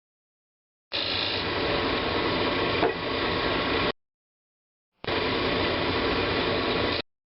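Woodturning lathe spinning a large wooden bowl blank while a turning tool cuts it, a dense shaving noise over the motor's steady hum. It comes in two stretches, the first about three seconds and the second about two, with dead silence before and between them, and a sharp click near the end of the first.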